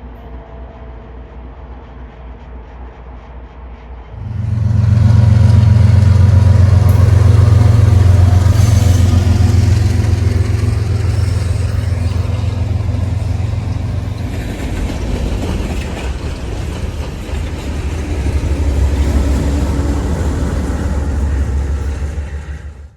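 Diesel locomotive of a train passing close by: a low rumble at first, then the engine suddenly loud about four seconds in, running steadily with a deep drone and the noise of the passing train until the sound cuts off at the end.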